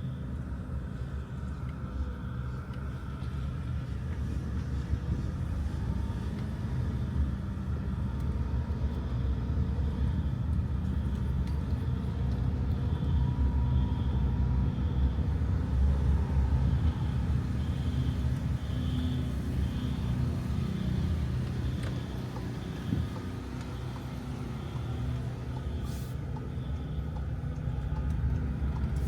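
Steady low rumble of a motor vehicle running, with road noise, holding at an even level.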